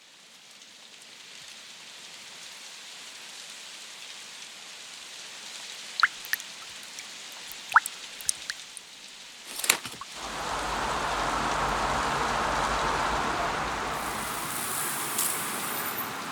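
Rain ambience fading in, with a few sharp, distinct water drips a little past the middle. About ten seconds in, the rain becomes suddenly louder and fuller, with a low rumble underneath.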